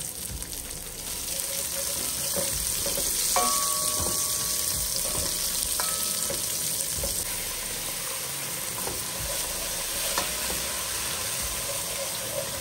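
Chopped onion and garlic frying in hot oil, sizzling steadily as it is stirred. A spoon clinks against the pan with a short ringing note about three and a half seconds in and again about six seconds in.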